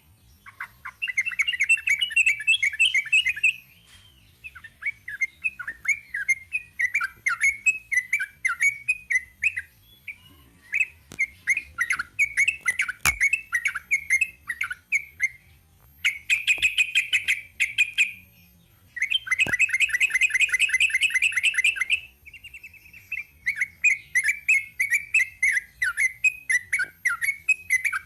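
Yellow-vented bulbul (trucuk) singing in long phrases of rapid, chattering notes, separated by short pauses, with two denser, faster runs of notes in the middle.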